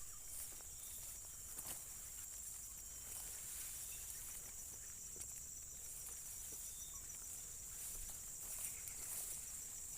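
Steady high-pitched insect chorus, a continuous fine trilling, over a faint low rumble.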